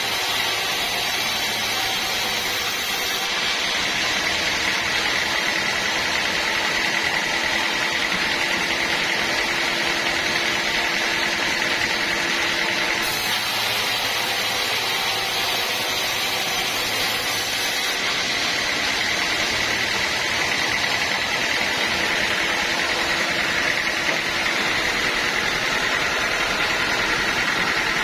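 Sawmill machinery running steadily, an even mechanical noise with a constant high whine.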